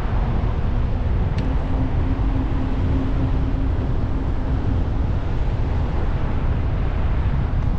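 Steady wind buffeting the microphone of a moving e-bike, over a rumble of tyres on the road. A faint steady hum rises and fades in the first half, with a single light click about a second and a half in.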